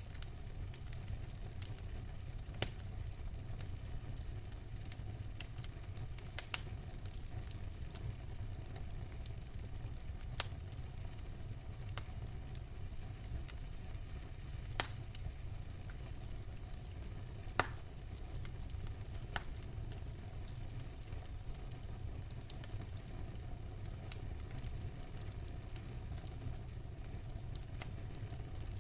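Wood fire burning in a fireplace: a steady low rumble of the flames with scattered sharp crackles and pops from the burning logs, a quick double pop about six seconds in standing out as the loudest.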